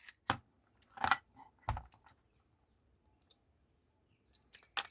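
Small cast-iron table vice worked by hand to clamp: a few sharp metal clicks and knocks, three in the first two seconds and a couple more near the end.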